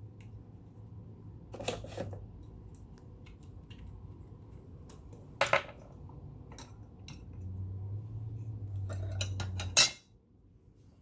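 Metal parts of a vintage all-metal sewing machine clinking and knocking as it is taken apart, a few separate clacks with a sharp loud one near the end. A low hum underneath swells over the last couple of seconds and cuts off with that final clack.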